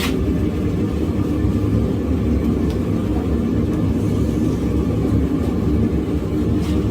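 Propane forge burner running steadily, a low even rumble, while steel heats toward welding heat.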